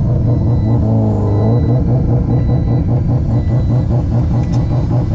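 Car engine running loud at fairly steady revs, its note dipping briefly about a second in.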